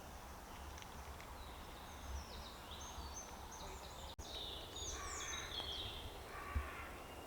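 A woodland songbird singing quick, high, varied whistled phrases over a quiet background; the song comes in about two seconds in and stops about six seconds in.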